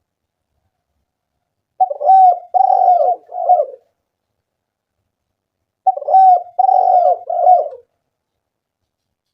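Spotted dove cooing: two calling phrases about four seconds apart, each a run of about three low coos.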